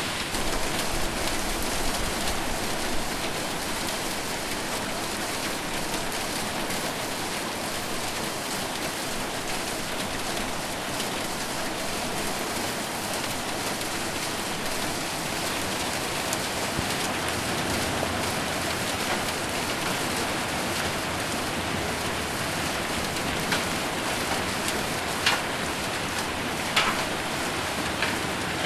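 Heavy rain falling steadily on a metal roof, with a few sharp ticks of single hits in the last few seconds.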